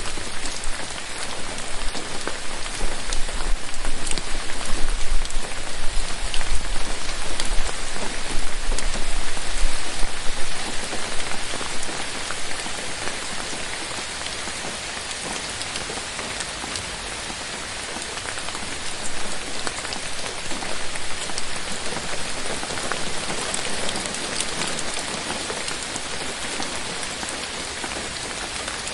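Steady rain falling on forest foliage, a dense patter of drops on leaves. It is heavier and gusting for the first ten seconds or so, then eases to a softer, even shower.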